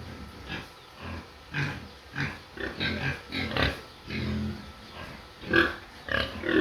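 Pig grunting and squealing in a rapid, irregular string of short calls, the loudest about two-thirds of the way in; the title takes the pig for hungry.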